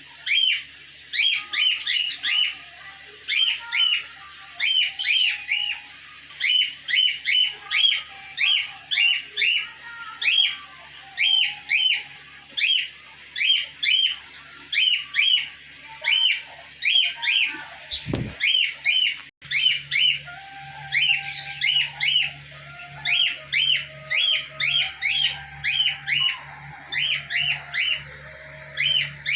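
Small pet parrots chirping: short, sharp, high chirps repeating about two or three times a second, often in quick pairs.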